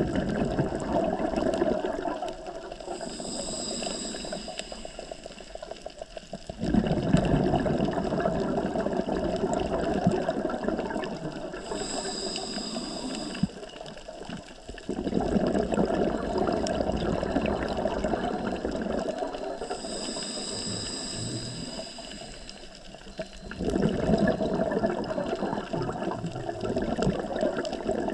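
Scuba diver's own breathing through a regulator underwater: long bouts of exhaled bubbles burbling out, each several seconds, with a thin high hiss from the regulator on each inhale in the quieter gaps between them.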